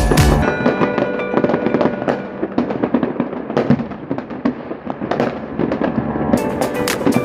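Fireworks going off in quick succession, many sharp bangs and crackles, with music playing along.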